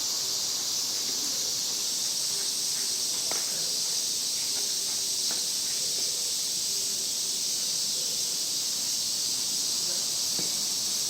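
Steady high-pitched drone of insects in chorus, unbroken and even, with a few faint knocks underneath.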